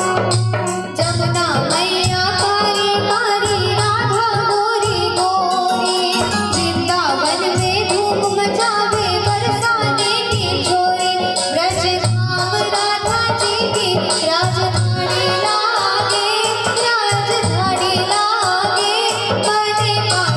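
Indian devotional folk music played live: a wavering, ornamented melody line over a fast, steady percussion beat with rattling jingles.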